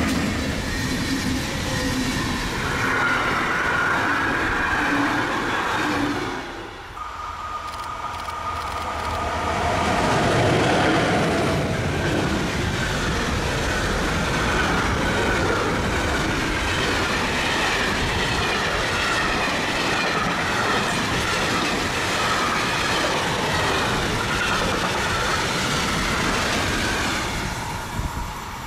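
An SBB passenger train rolls past at speed and fades after about six seconds. A long freight train of hopper wagons then passes close by, with a brief steady whine as it arrives and the wagons' wheels running loudly over the rails with faint squeals. It eases off near the end.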